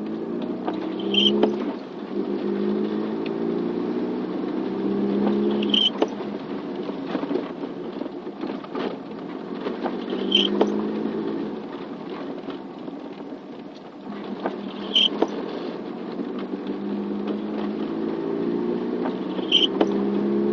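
Car engine running on the road in rain, its pitch rising in stretches as it accelerates, over a steady hiss of rain and tyres. A short high chirp repeats about every four and a half seconds.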